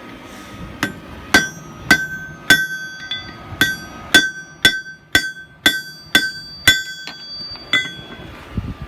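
Hammer blows on a hot railroad-spike hook on an anvil: about a dozen ringing strikes, roughly two a second, with a short gap before the last one.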